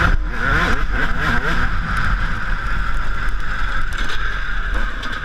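Yamaha YZ125 single-cylinder two-stroke motocross engine, revving up and down as the bike is ridden, its pitch climbing and dropping several times in quick succession in the first second or so. A steady rushing hiss runs underneath.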